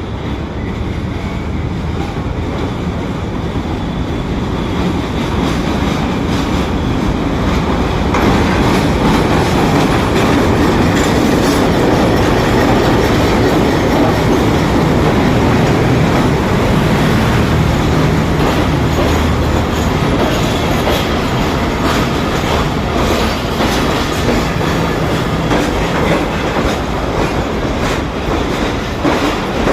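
Rehman Baba Express passenger train coming into the station, its wheels rumbling on the rails. It grows louder over the first several seconds, then holds steady.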